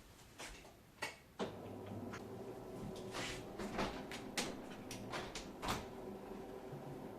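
Several sharp clicks and knocks of household things being handled, and about a second and a half in a steady, even hum switches on and keeps running.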